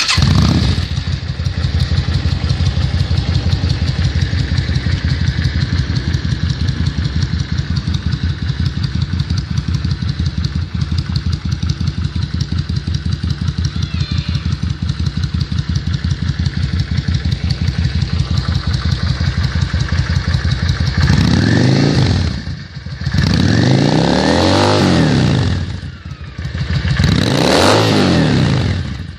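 Yamaha V Star 650 bobber's air-cooled V-twin, running through Vance and Hines Cruzer exhaust pipes, catching at the very start and then idling with a steady pulsing beat. Near the end the throttle is blipped three times, each rev rising and falling back to idle.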